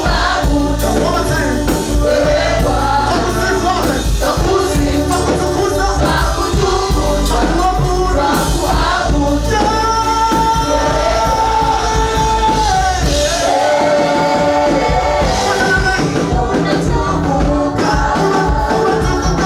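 A vocal group singing gospel praise music with a band: held sung notes over a steady bass and a percussive beat.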